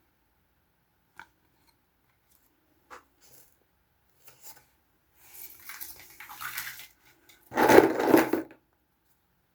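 Small plastic toys and their packaging being handled: a few light clicks, then rustling, and a louder plastic rustle and clatter lasting about a second near the end.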